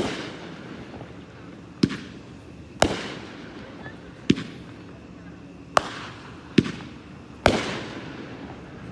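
Pyro World 50-shot consumer firework cake firing: seven sharp bangs at uneven intervals of about a second or so, each trailing off in a short echo.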